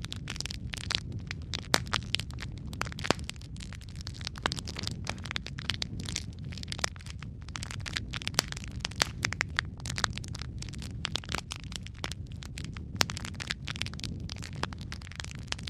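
Burning logs in a fireplace crackling, with frequent sharp, irregular pops over a steady low rumble of the flames.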